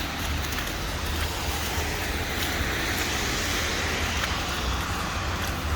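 Steady city street traffic noise, cars running past with a constant low rumble.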